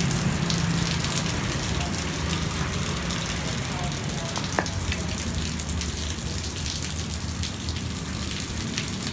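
Rain falling steadily in a storm: an even hiss with scattered drop taps and a low rumble underneath, and one sharp tap about four and a half seconds in.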